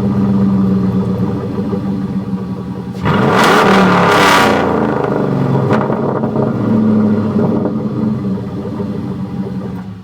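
Straight-piped 4.7L Magnum V8 of a 2000 Dodge Dakota, with no muffler and a side-exit exhaust, running loud. It is revved hard once about three seconds in, with a couple of smaller blips after, and the sound cuts off abruptly at the very end.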